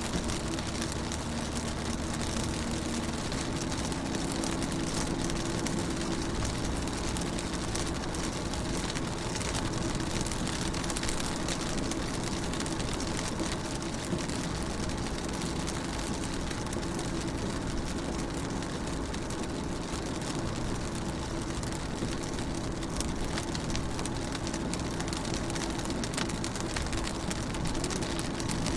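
Steady rain falling on a car's windows and body, with fine drop ticks, over a steady low hum.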